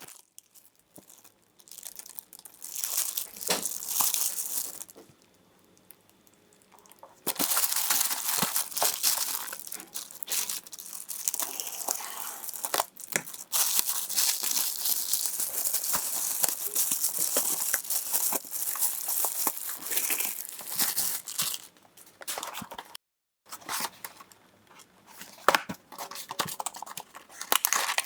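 Product packaging being handled and opened: crinkling, rustling and tearing in irregular spells with sharp clicks, with a couple of short pauses.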